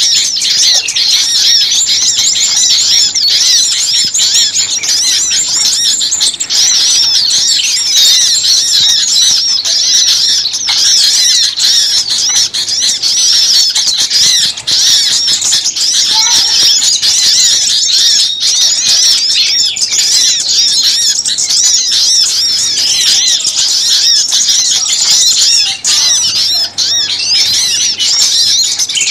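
A dense chorus of many small songbirds chirping and twittering at once, high calls overlapping without a break. It is a lure recording of small birds calling in agitation, used to draw wild birds in.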